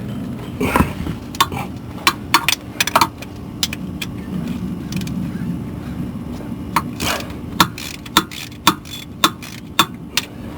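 Hand tools working on metal under a car: irregular sharp clicks and clinks of sockets and wrenches on bolts, over a steady low hum.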